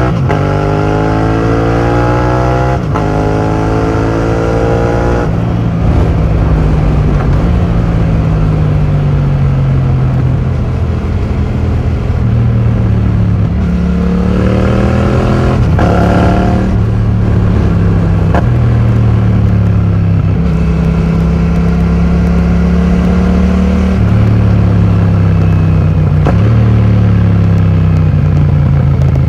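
2020 Yamaha MT-07's parallel-twin engine through a full titanium Akrapovic exhaust with the dB killer removed, pulling up through the gears. The pitch climbs and drops back at each shift over the first few seconds. It then runs fairly steady, with one sharp rev rise and drop about halfway through.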